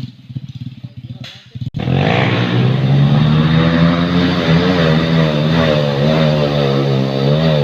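Motorcycle engine running unevenly at low speed, then revved up suddenly about two seconds in and held at high, steady revs with a slight waver.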